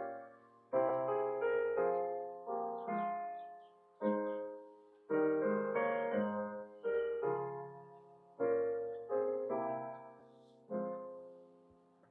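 Solo piano music: slow chords struck about once a second, each left to ring and fade.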